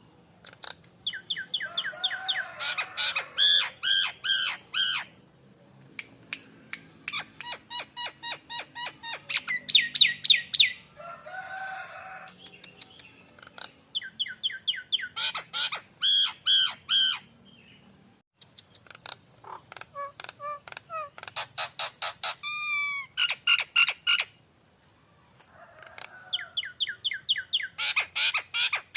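Nias hill myna calling in bouts of rapid, repeated, ringing notes mixed with lower whistles, five bouts of a few seconds each separated by short pauses.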